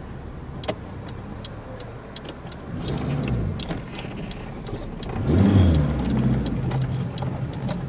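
Honda Civic's engine running as the car drives, picking up about three seconds in and revving up and back down around five to six seconds in. Scattered light clicks sound over the hum.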